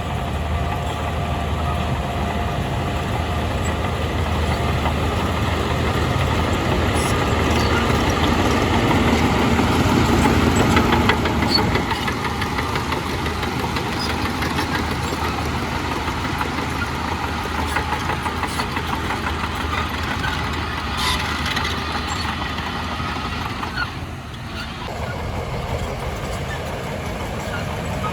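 Heavy diesel earthmoving machinery running under load, with scattered sharp metallic clanks. It grows louder up to about eleven seconds in, eases off, and dips briefly a few seconds before the end.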